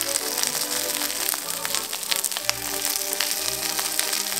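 Background music over sliced aubergine sizzling in hot oil in a frying pan, a steady hiss with many small crackles.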